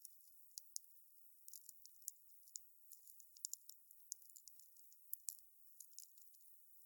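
Wood fire crackling: faint, irregular sharp snaps and pops, several a second, over a soft hiss, with a few louder pops midway.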